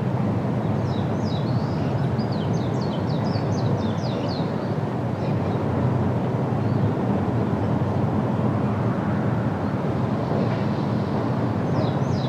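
A songbird singing a rapid series of short, high, falling notes for about three and a half seconds from about a second in, then a brief few notes again near the end. Under the song runs a steady low rumble.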